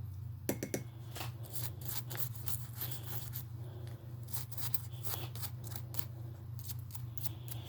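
Small plastic RC-car parts being handled and worked on a table: irregular light clicks, taps and scrapes, over a steady low hum.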